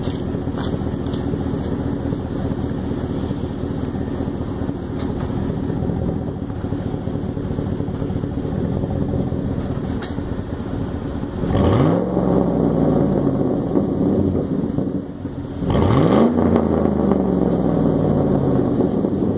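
2008 Chevrolet Silverado's 5.3-litre V8 through a straight-piped 3-inch exhaust with no muffler, idling steadily. It is then blipped twice, about 4 s apart, a little past halfway through; each rev climbs quickly and falls back slowly to idle.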